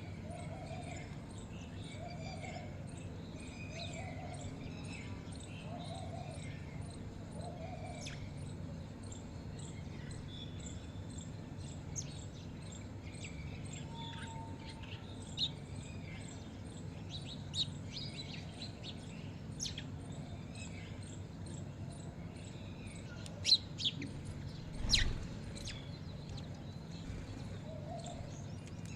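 Several birds chirping and calling over a steady low hum. A lower call repeats about once a second for the first several seconds and comes back near the end. A few louder, sharp calls or knocks come just before the last few seconds.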